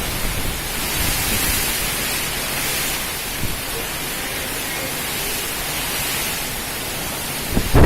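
Heavy rain falling in a steady hiss. Near the end, a gust of strong wind buffets the microphone with a low rumble.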